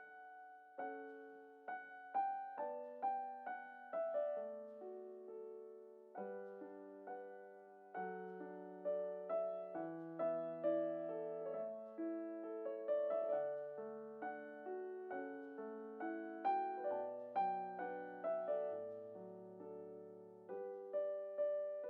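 Solo piano music: a gentle, tender melody of struck notes and chords, each note fading after it is played.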